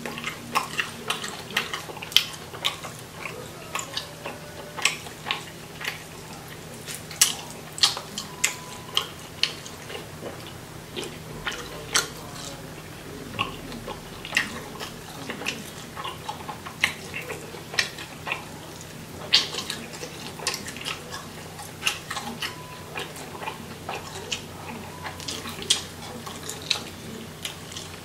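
Close-up mouth sounds of someone eating a fried chicken wing: irregular sharp smacks, clicks and bites, several a second, over a steady low hum.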